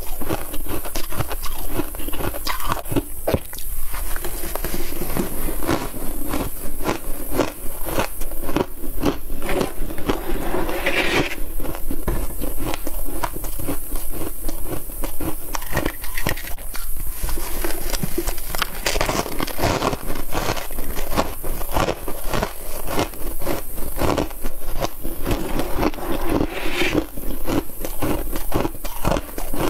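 Close-up biting of freezer frost: a dense, continuous run of crisp crunches and crackles as the frost is bitten.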